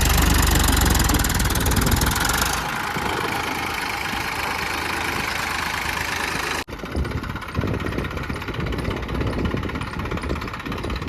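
Tractor diesel engine running loudly, hauling a fully loaded soil trolley; the sound changes abruptly about two and a half seconds in and again about two-thirds of the way through.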